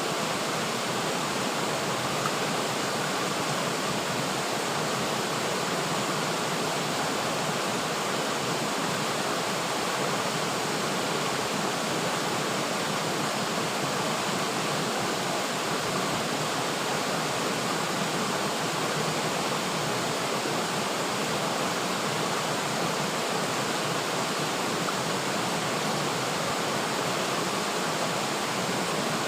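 River water flowing steadily over rocks: a constant, even rush without pauses.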